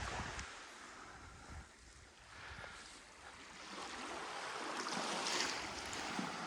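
Sea surf washing onto the beach, swelling over the last couple of seconds, with wind rumbling on the microphone at the start.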